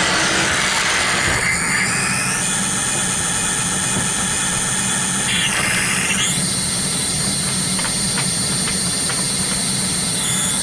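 Model train locomotive running along the track, its small electric motor and gears giving a steady whine and hum. A few light clicks come near the end.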